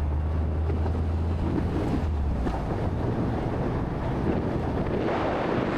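A low, steady engine hum with wind and road noise; the hum fades about two seconds in, leaving a steady rush of wind on the microphone.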